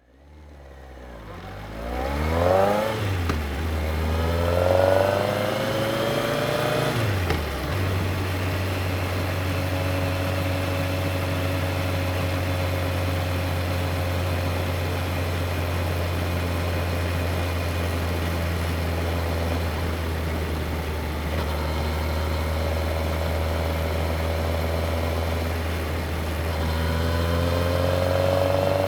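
Yamaha XJR1300's air-cooled inline-four engine accelerating twice with rising pitch early on, then running at a steady cruising speed for most of the stretch, and beginning to climb in pitch again near the end.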